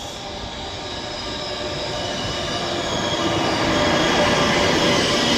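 Passenger train pulling into a station, growing steadily louder, with high steady metallic squealing from its wheels and brakes over a low rumble.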